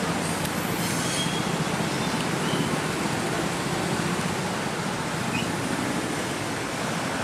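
KRL commuter electric train running slowly on the track, mixed with the steady rush of heavy rain. Faint high wheel squeals come through here and there.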